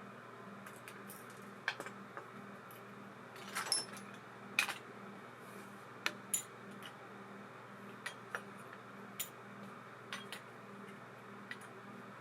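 Small metal parts of a baitcasting reel clicking and clinking as they are handled, a dozen or so irregular taps, a few with a short metallic ring.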